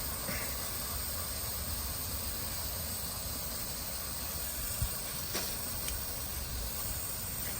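Steady hissing from the overheated engine of a 2004 Ford Taurus running on dish soap in place of oil, boiling under the hood, with a low rumble underneath.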